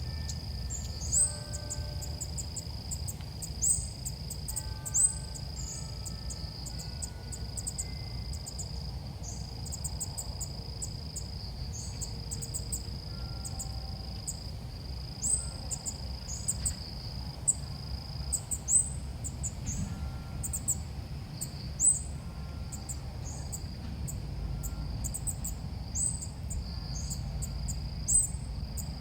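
Bird calls played to lure birds: short, very high chirps repeating, often in quick clusters, over a steady high whine that fades out about two-thirds of the way through and a constant low hum.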